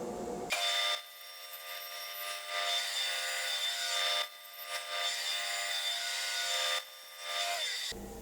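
Power saw running with a steady whine while it cuts small wooden trim pieces, the loudness dipping briefly between passes; the sound cuts off suddenly near the end.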